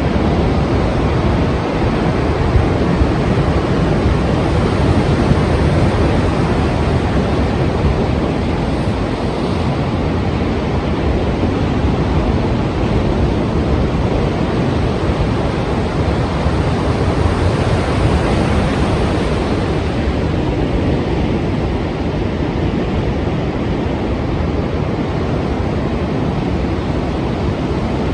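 Strong ocean surf: a continuous heavy rush of breaking waves, fairly even in loudness, with no single wave standing out.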